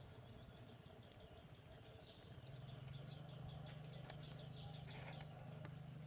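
Faint high-pitched chirping: a quick run of short ticks, then a few short calls that sweep downward, over a low steady hum.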